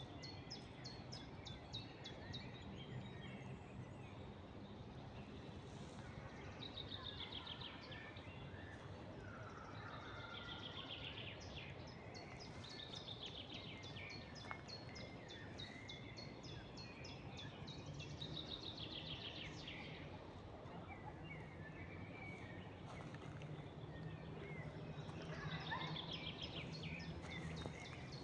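Songbirds singing in a spring forest: short, fast trilled phrases repeated every few seconds, over a steady low background rumble.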